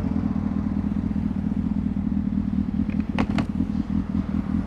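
A vehicle engine idling steadily in stopped traffic, a low even hum. A few faint clicks come a little over three seconds in.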